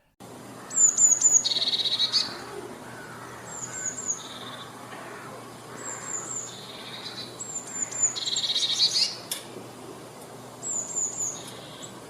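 Blue tit singing: about five phrases, each of two or three thin, high, falling notes followed by a lower rattling trill.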